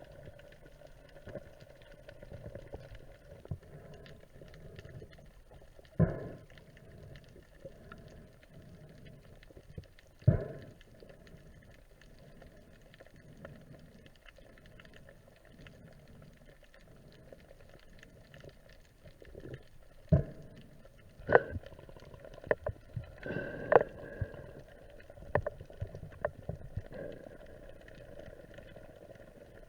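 Muffled water noise heard underwater, broken by about five sharp knocks spread through the stretch.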